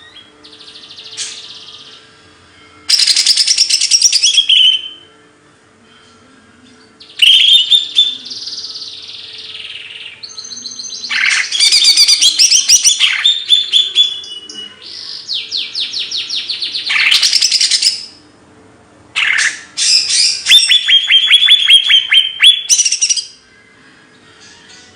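A songbird singing loud, varied phrases of rapid trills, chirps and buzzy sweeping notes, about five bursts separated by short pauses. A faint steady hum runs underneath.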